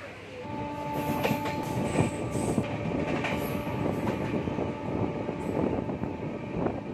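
Passenger express train running on the rails, getting louder about half a second in. A steady high whine sounds over the rumble, with irregular knocks from the wheels over the track.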